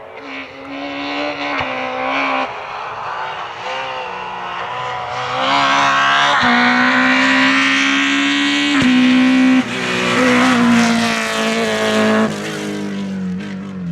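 Groupe F2000 rally car's naturally aspirated engine at high revs, pulling hard through several quick gear changes. It grows louder about five seconds in and stays loud until it falls away near the end.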